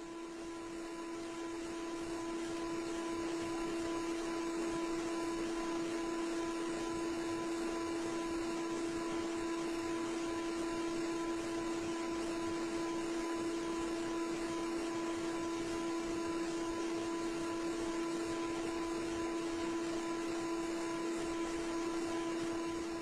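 A steady hum at one unchanging pitch over an even hiss, starting suddenly after a moment of silence and holding level throughout.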